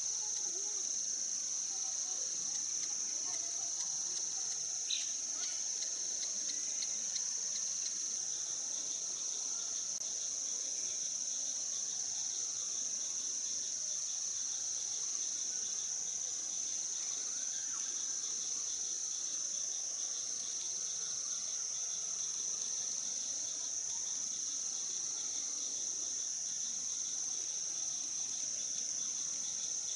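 A chorus of insects keeps up a steady high-pitched drone, with a faster pulsing trill a little lower in pitch. A single short, sharp chirp stands out about five seconds in.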